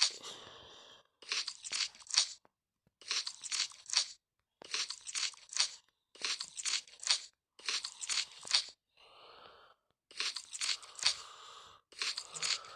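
Crunchy food being bitten and chewed: about seven bursts of three or four sharp crunches each, evenly spaced with short pauses between.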